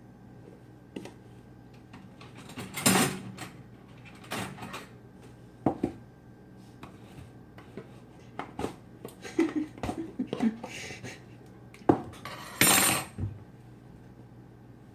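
Metal measuring spoons and dishes clinking and knocking while salt is measured out for a pickle brine. Scattered sharp clinks run throughout, with two short, louder rattling bursts, one near the start and one near the end.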